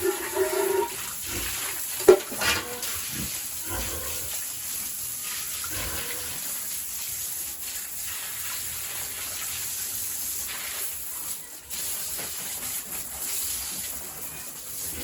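Water from a hose spraying steadily onto a pig pen floor, with a few short pig squeals and knocks in the first few seconds.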